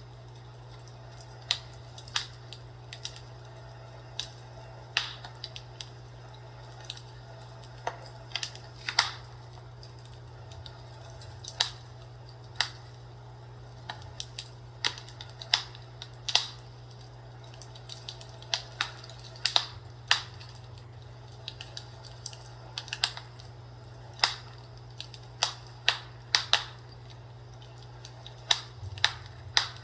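Fireplace crackling: irregular sharp pops and snaps of burning wood, about one or two a second, over a steady low hum.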